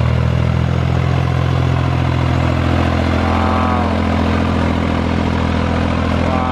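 John Deere tractor engine running steadily at a constant speed. Two brief high tones that fall in pitch sound over it, about three seconds in and again near the end.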